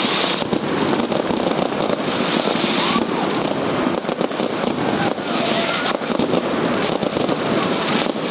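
Many fireworks going off at once: a dense, continuous crackling and popping of overlapping bursts, with no pause between them.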